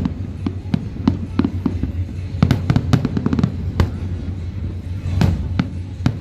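Fireworks going off in a quick, irregular series of sharp bangs and cracks, several a second at times, over a steady low rumble.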